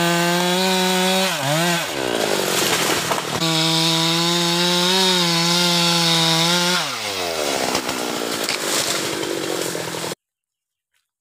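Husqvarna two-stroke chainsaw running at high revs. The revs dip briefly about a second and a half in, fall away again about seven seconds in, and the sound cuts off suddenly near the end.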